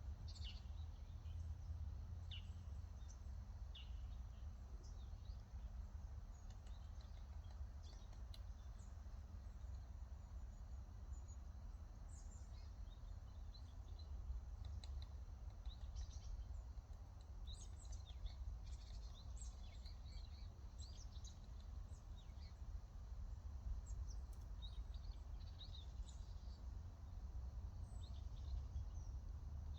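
Small songbirds chirping, with many short high calls scattered throughout and clustering more thickly toward the middle and the end. A steady low rumble runs underneath.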